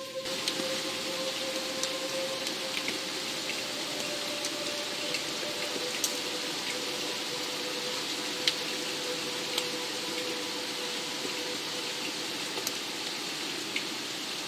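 Steady rain falling, an even hiss with scattered sharp drop hits, over a single steady held note.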